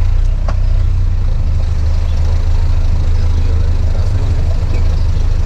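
Off-road 4x4 vehicle's engine running steadily with a deep low rumble while driving, with one short click about half a second in.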